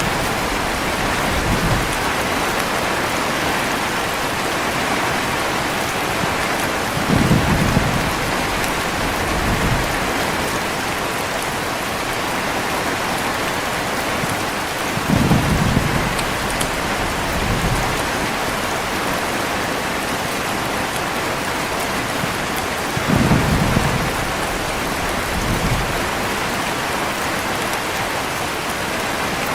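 Heavy rain falling steadily with low, brief thunder rumbles about every eight seconds, each followed by a fainter rumble about two seconds later.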